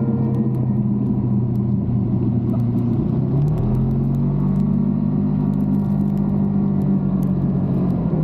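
Motorbike engine running under way, its pitch rising about three seconds in as it picks up speed, then holding steady, with a low rumble.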